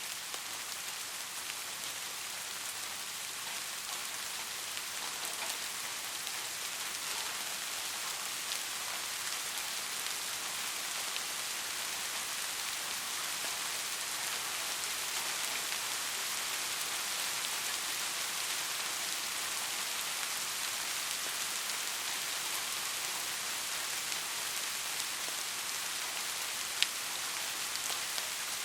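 Steady rain falling, an even hiss with scattered drops ticking, and one sharper drop tick near the end.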